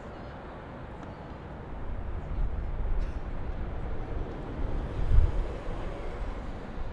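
City ambience heard from high above the streets: a steady, noisy hum of distant traffic with an uneven low rumble that grows louder about two seconds in and peaks briefly near the five-second mark.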